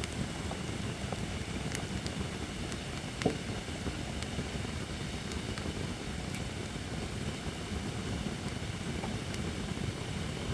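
Campfire of holly wood burning, with scattered crackles and pops over a low steady rumble; one louder pop about three seconds in.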